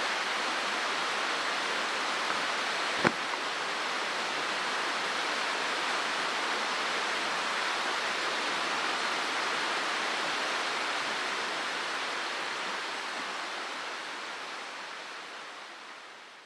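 Mountain stream rushing steadily over rocks, with one sharp click about three seconds in; the water sound fades out near the end.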